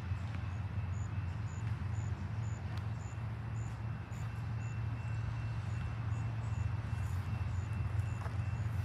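A long train rolling past with a steady low rumble.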